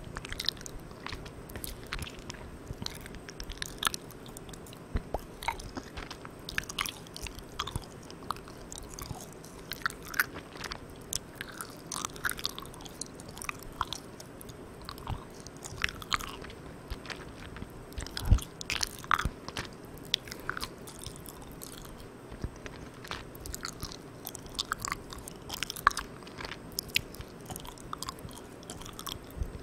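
Close-miked chewing of soft, sticky Malang Cow milk candy: irregular wet, sticky mouth clicks and smacks, one louder a little past halfway. A steady hiss runs underneath from the microphone gain turned all the way up.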